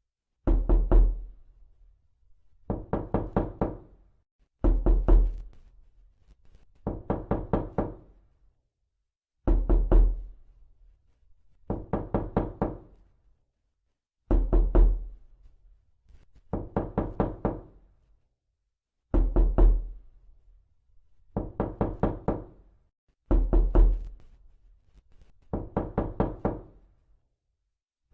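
Repeated knocking in quick bursts of five to seven raps. A new burst comes about every two seconds, and some open with a heavier thud.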